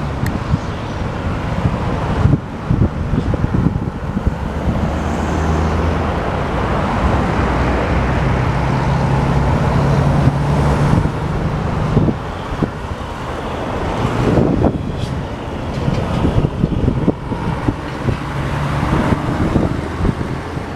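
Low, steady engine drone over a continuous rumble, the engine's pitch stepping up about eight seconds in, with a few brief knocks.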